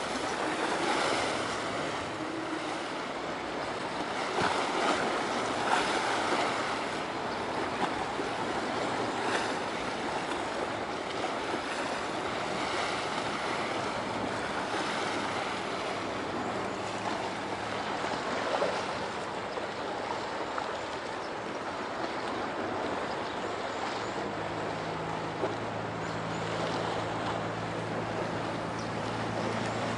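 Steady low drone of a large ship's engines, a few low tones that fade in midway and grow stronger towards the end, over a steady rushing of wind and water.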